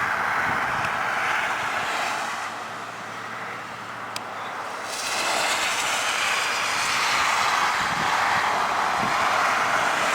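Chevy Z-71 4x4 pickup plowing snow: a steady, noisy vehicle sound that eases off around three seconds in and builds again after about five seconds, with a single sharp click near four seconds.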